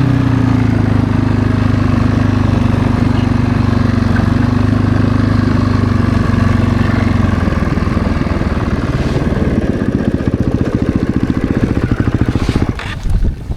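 Snowbike's 450 cc single-cylinder four-stroke engine revving up, then running at steady high revs under load. It drops away suddenly near the end.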